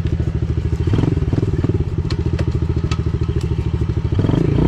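Pit bike's small single-cylinder engine running under throttle, revving up about a second in and again near the end. A few sharp clicks and knocks are heard over it.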